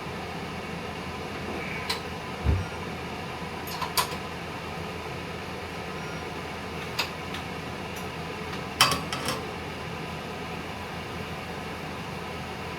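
Scattered sharp clicks and knocks of hand tools on bicycle metal parts over a steady background hum, with a single low thump about two and a half seconds in and a quick cluster of clicks near the end.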